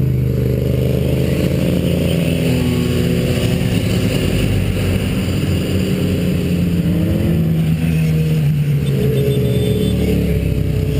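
Motorcycle engine running under way, heard from the rider's own bike, its pitch rising and falling with the throttle.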